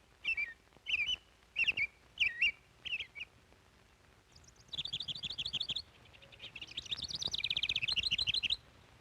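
A songbird singing: a string of short separate chirps, then two fast high trills, the second longer and louder.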